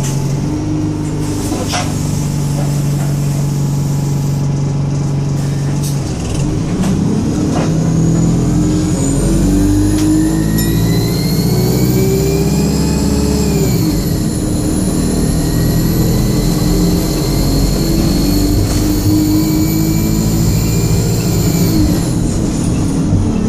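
Alexander Dennis Enviro 200 bus idling, then pulling away and revving hard, with a high-pitched screaming whine that climbs steadily, drops once at a gear change about halfway, climbs again for several seconds and falls away near the end. A few sharp clicks sound in the first seconds.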